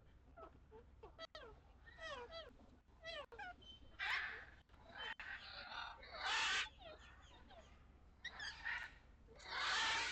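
Farmyard poultry calling: a run of short, falling calls, with three louder, harsh calls about four, six and a half and ten seconds in.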